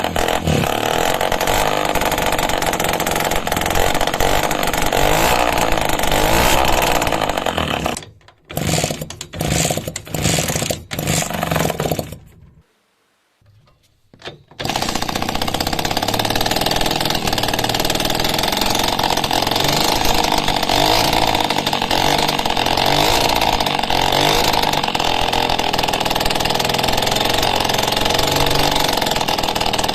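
Engine running loudly and steadily. About eight seconds in it stutters and cuts in and out, goes silent for a couple of seconds, then runs steadily again.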